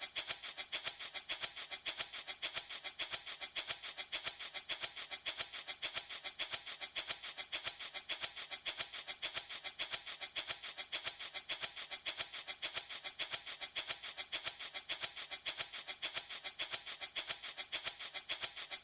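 Handmade wooden baby rattle shaken in a steady, fast, even rhythm: a bright, high rattling that keeps going without a pause.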